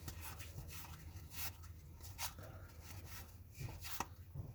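Paper trading cards being slid off a stack and handled, a scatter of soft rubbing scrapes and light ticks, over a faint steady low hum.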